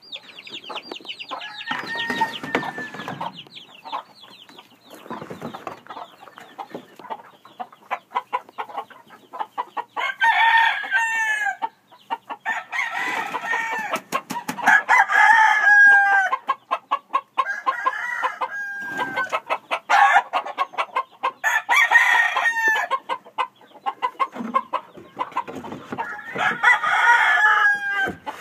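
Several gamecocks crowing again and again, some crows overlapping, with clucking and short clicks between the crows.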